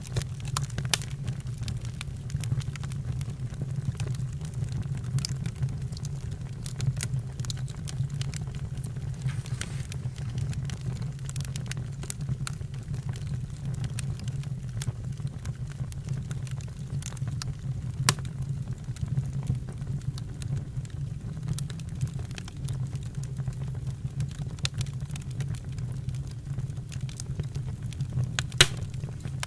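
Campfire burning: a steady low rumble with scattered crackles and pops. A sharper pop comes a little past halfway and another near the end.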